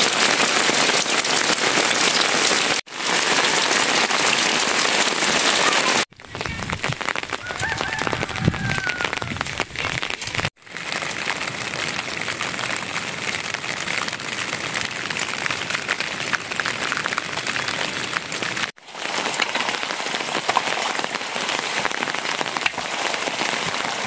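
Steady rain falling, heard across several shots joined by abrupt cuts, where the sound briefly drops out and changes in tone.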